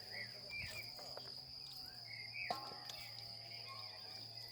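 Forest ambience: a steady high-pitched insect trill, like crickets, with short bird chirps over it. There is a single sharp click about two and a half seconds in.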